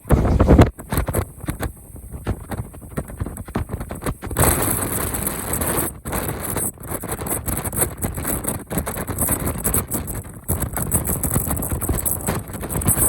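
Typhoon wind gusting hard against the microphone: a loud blast at the very start, broken gusts, then a heavier continuous rush from about four seconds in.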